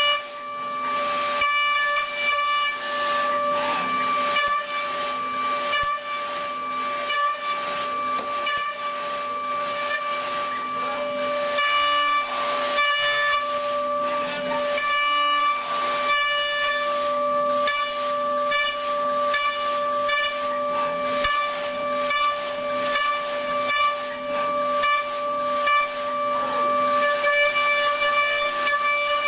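CNC machine running: a steady high whine at one unchanging pitch over a constant hiss, with a lower hum that keeps cutting in and out and irregular noisy strokes throughout.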